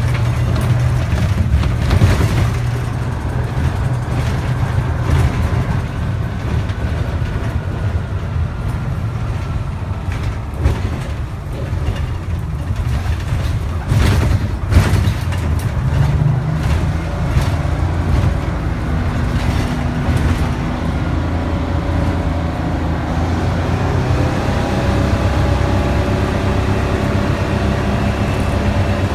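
Detroit Diesel 6V71 two-stroke V6 diesel engine of a 1974 fishbowl transit bus running loudly under way. Its whine falls slowly early on and rises again near the end as the bus picks up speed, with a few sharp knocks about two seconds in and near the middle.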